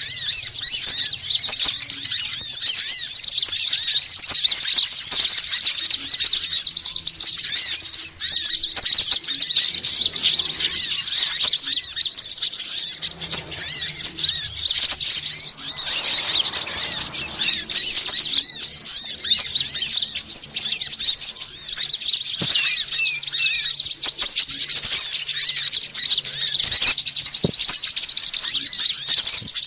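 Bird-lure recording of small songbirds: a dense, unbroken chatter of rapid high-pitched chirps and twitters from many birds at once, the busy, agitated calling used to draw small birds in.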